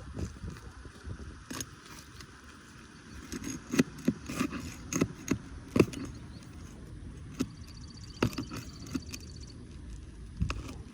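Hand tools clicking and knocking against roofing nails and asphalt shingles as the nails are pried out. The sharp knocks come irregularly, bunched together in the middle, with a few more toward the end.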